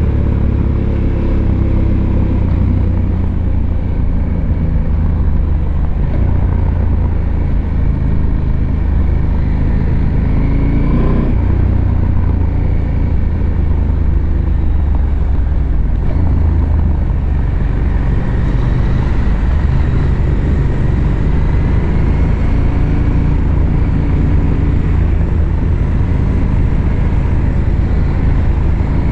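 Husqvarna Norden 901's parallel-twin engine pulling the bike along, heard from the rider's seat with wind noise. The pitch climbs to about eleven seconds in and then drops sharply, as on a gear change, and later rises slowly again.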